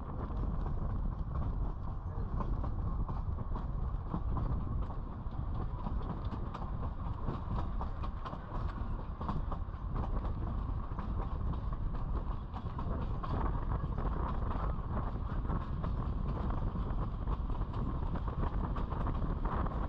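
Durango–Silverton narrow-gauge train rolling along the track: a steady rumble with frequent clicks and clatter of wheels on the rails.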